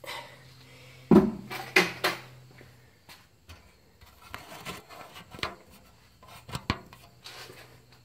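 Hands handling a hydraulic oil jug and funnel at a tractor's filler: a few sharp clunks, the loudest about a second in, then scattered lighter knocks and rubbing.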